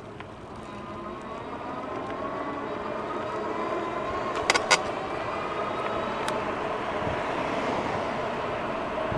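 Jansno X50 e-bike's electric motor whining as it pulls away, its pitch rising a little while wind and tyre noise build up. Two sharp clacks come about four and a half seconds in, typical of the bike's noisy rear shock.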